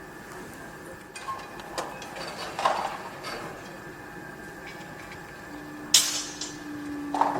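Construction-site noise: a steady background hum with scattered metallic knocks and clanks, the loudest about six seconds in, and a low steady machine tone for a second or two near the end.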